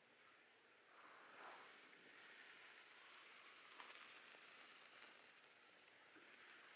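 Faint, soft rustling and swishing from hands or a brush moving over skin, hair or clothing during a massage, swelling gently now and then.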